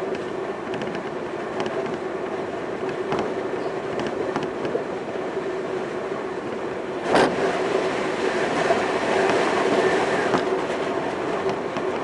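Semboku Rapid Railway 5000 series electric train running at speed, heard from inside the car: steady running noise with a steady hum and light clicks from the wheels. About seven seconds in comes a sharp clack, and the running noise grows louder for a few seconds.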